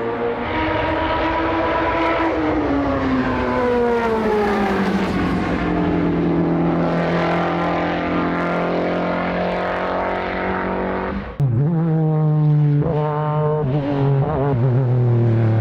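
Time attack race car engine running hard, its note falling over a few seconds and then holding steady. About eleven seconds in the sound cuts to another race car engine whose pitch rises and falls in quick blips before settling.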